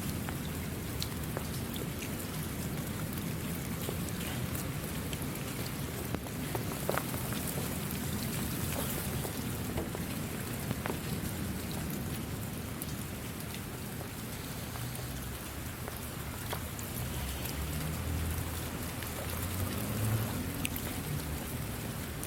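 Steady rain falling, with individual drops ticking sharply now and then over the even hiss. A low rumble swells near the end.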